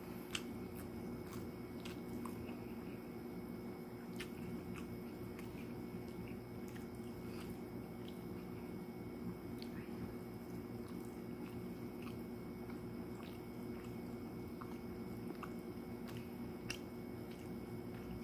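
A person eating chicken adobo: faint chewing with scattered small clicks, over a steady low hum.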